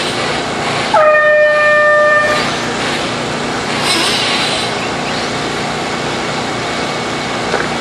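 A single steady horn-like tone, held about a second and a half, sounds about a second in: the race start signal for the RC truck main. Steady noise from the track runs under it.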